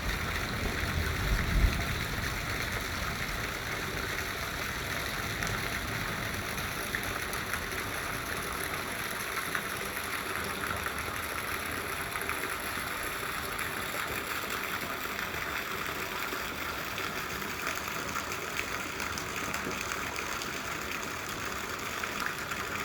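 Steady rain falling, an even hiss. In the first two seconds a low rumble rises and peaks about a second and a half in.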